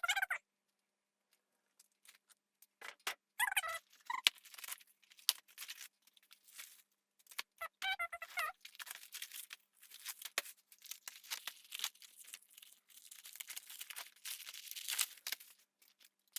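Packaging and sanding belts being handled and unpacked: irregular rustling, crinkling and tearing with many small clicks, and a couple of short squeaks.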